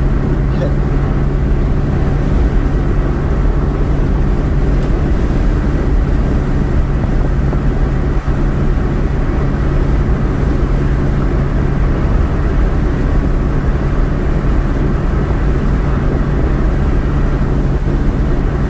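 Car driving at steady speed: constant road and engine noise heard from inside the cabin, with a steady low hum.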